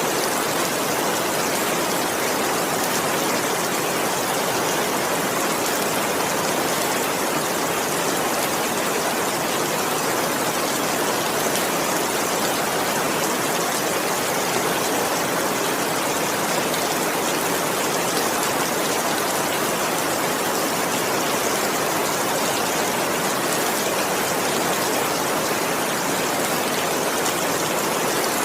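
Steady heavy rainfall, an even unbroken hiss of rain without thunder or other events.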